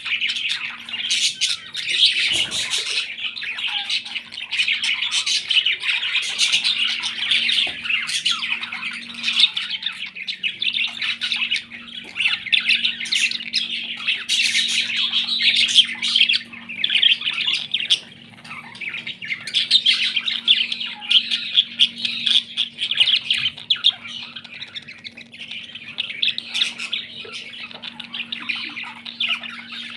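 Pet parrots chattering and squawking without pause, a dense stream of high chirps and sharp calls.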